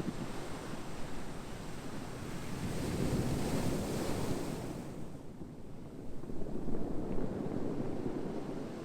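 Ocean surf, waves washing in with a steady rushing hiss. A wave swells about three seconds in and fades, and a second one comes in about six seconds in.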